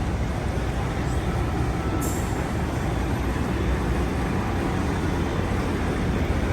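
Steady low vehicle rumble, like city traffic or a running engine, with no clear single event.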